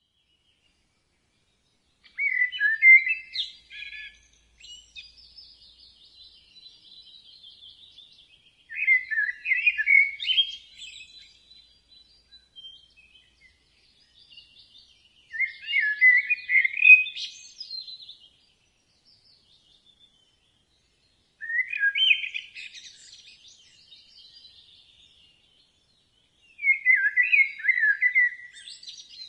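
A songbird singing: a short, loud, warbled phrase about every six seconds, five in all, with faint high twittering between phrases.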